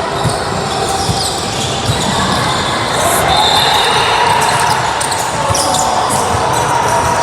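Basketballs bouncing on a gym floor, irregular dribbling thuds, over background chatter of voices.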